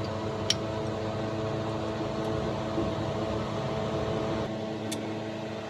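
A steady mechanical hum, one even tone with its overtones over a noisy wash, with a few faint light clicks.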